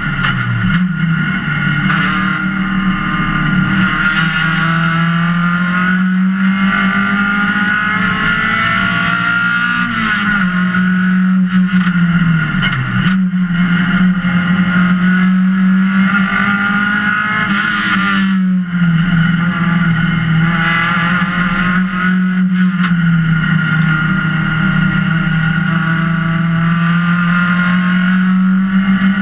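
Race car engine running hard under load, heard from inside the bare, caged cockpit. Its pitch holds high, then drops sharply several times as gears change, and builds again.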